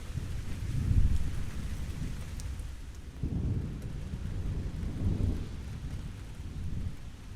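Steady rain with low rolls of thunder rumbling several times, the strongest about a second in.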